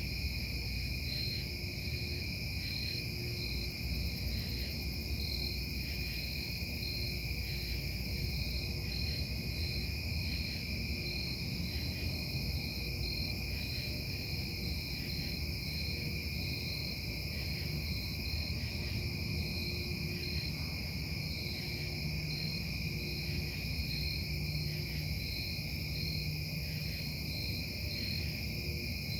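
Steady industrial noise from the Casting Solutions foundry carrying at night: a continuous low rumble under several steady high-pitched tones, one of them pulsing regularly.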